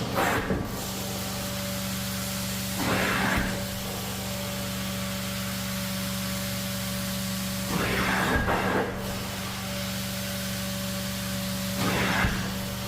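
Carpet-cleaning extraction machine running with a steady hum, with a louder swish of spray and suction three times, about every four to five seconds, as the cleaning wand is passed over the carpet.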